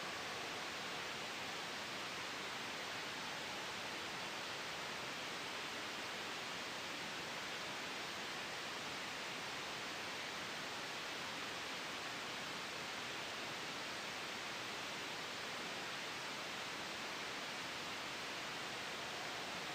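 Steady white noise blended with a gentle wind ambience: an even, unchanging hiss with no sudden changes.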